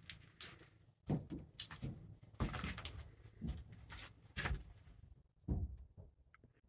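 A series of about a dozen irregular knocks and thuds, dying away near the end.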